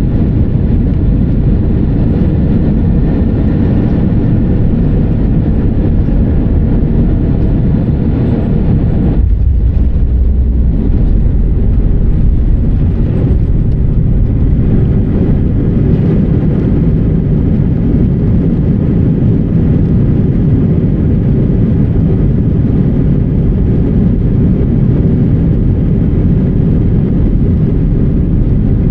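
Airbus A319-100 jet engines and airflow heard from inside the cabin: a loud, steady rumble. About nine seconds in it shifts suddenly to a deeper, heavier rumble as the hiss fades, and the hiss then slowly builds back up.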